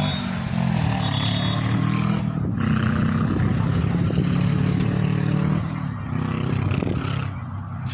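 A vehicle engine running, its pitch slowly rising and falling.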